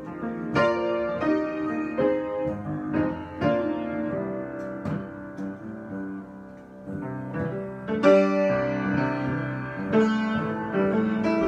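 Solo piano improvisation: chords and melody notes struck one after another, each ringing and fading, with a louder chord about eight seconds in.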